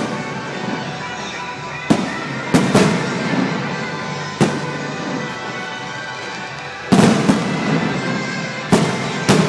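Aerial fireworks shells bursting in about eight sharp bangs at uneven intervals, some in quick pairs, with music playing steadily underneath.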